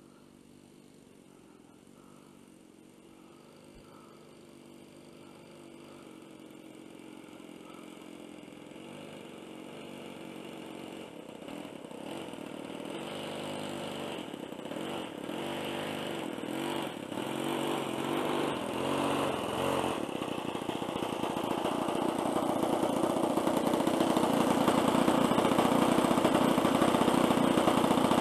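Engine of a radio-controlled Seagull Skyraider scale model plane running, growing steadily louder as it comes closer, its pitch shifting slightly with the throttle.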